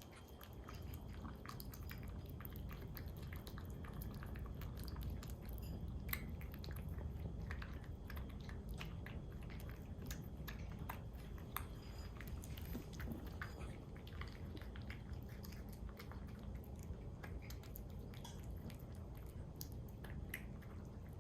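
A cat chewing and eating close to the microphone: a steady run of small, irregular wet clicks over a low room rumble.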